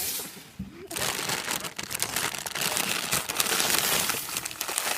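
A lit firework catches about a second in and sprays with a dense hiss full of rapid crackling pops.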